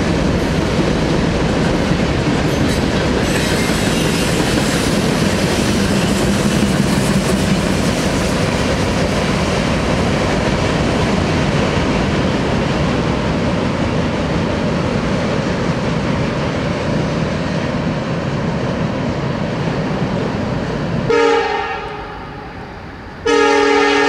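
A freight train's boxcars rolling past, the wheel and car noise slowly fading as the train clears. Then the horn of an approaching CSX SD70ACe diesel locomotive gives a short blast, and near the end a long blast.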